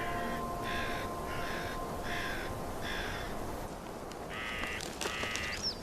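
Harsh bird calls repeated about twice a second for the first three seconds, then, after a short pause, a few longer calls with sliding high notes.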